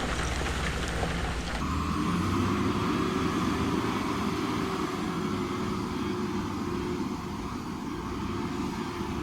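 Diesel engine of heavy construction machinery running steadily. About one and a half seconds in, a broad rushing noise cuts off abruptly, leaving a steady engine drone.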